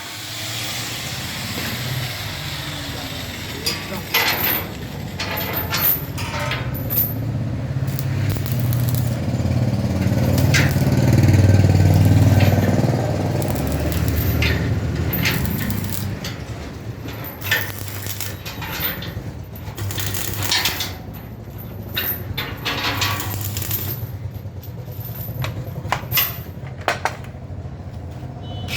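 Steel-body drum washing machine's electric drive running with a steady low hum, growing louder about ten seconds in and easing off a few seconds later, with scattered clicks and knocks.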